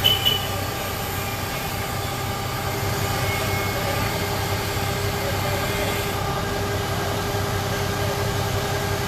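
Engine running steadily with a low hum. There is a brief knock right at the start, and a steady higher whine joins about three seconds in.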